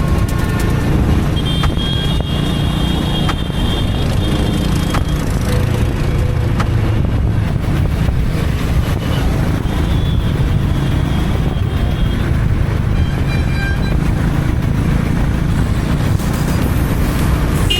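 Honda H'ness CB350's air-cooled single-cylinder engine and exhaust running steadily as the motorcycle rides along, heard from on the bike.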